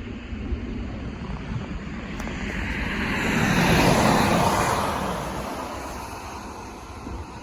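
A car passing by: its road noise swells to a peak about four seconds in and fades away, over a steady low rumble.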